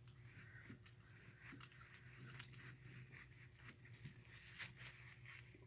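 Near silence: faint scattered clicks and light scratching from small parts being handled at a workbench, over a low steady hum.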